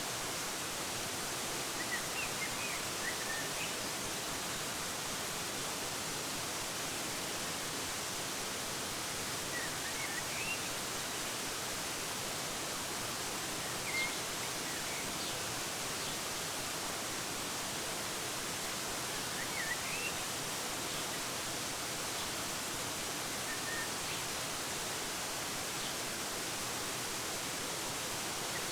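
Steady rushing of a waterfall, with a few short, high bird chirps scattered through it.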